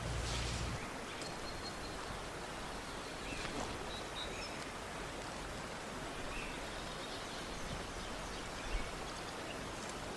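Steady rush of a flowing river or stream, with a few faint, short, high chirps scattered through it.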